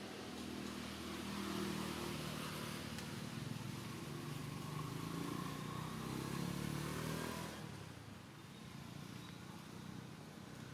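A motor vehicle's engine going by, its pitch shifting, then fading away about seven and a half seconds in.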